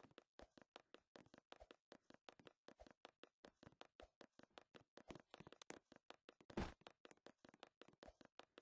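Faint, rapid clicking and tapping, several clicks a second, with one louder knock about six and a half seconds in.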